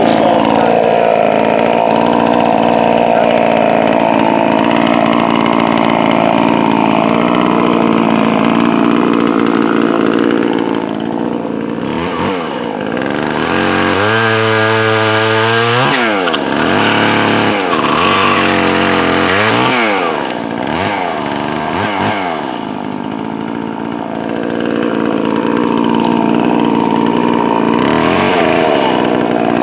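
Poulan Pro 4620 two-stroke chainsaw, freshly fitted with a new piston and running rich for break-in, running at full throttle as it cuts wood. About halfway through the revs fall away sharply and the throttle is blipped a few times, then it runs at full throttle again near the end.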